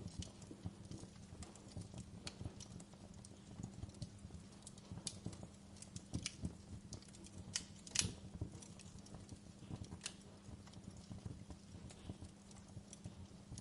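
Wood fire crackling in a fireplace: irregular sharp pops and snaps over a faint, steady low hum, with the loudest pop about eight seconds in.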